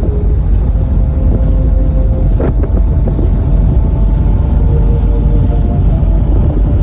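Steady low rumble of a car ferry under way, with wind buffeting the microphone.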